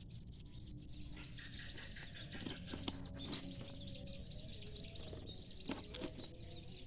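Faint bird chirping over a steady low background noise, with a few light knocks.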